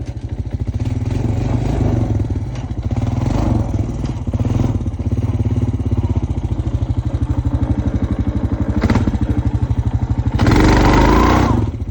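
Honda Foreman ES ATV's single-cylinder engine running and pulling under changing throttle as the quad rides off. Near the end a louder, broad rushing burst lasts about a second.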